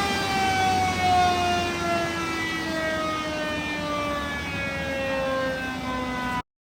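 Motorcycle engine winding down, its pitched whine falling slowly and smoothly for several seconds before cutting off abruptly near the end.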